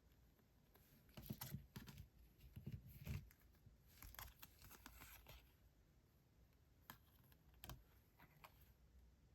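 Faint, crisp rustling and light taps of paper diary-decorating items being handled, in two short bursts, followed by a couple of single soft ticks.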